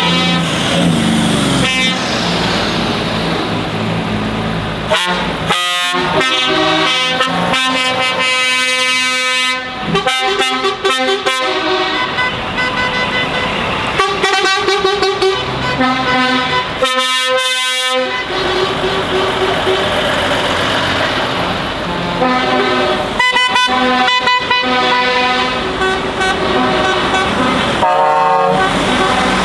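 Truck horns sounding over and over: short toots and longer blasts, several horns at different pitches at once, over running lorry engines.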